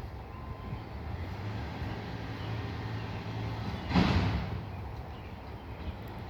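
Roll-off container truck's diesel engine running steadily, with one short, louder thud about four seconds in.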